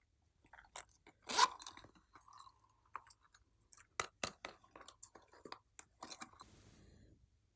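Slime being squeezed and kneaded by hand: an irregular run of wet clicks and pops, the loudest about a second and a half in.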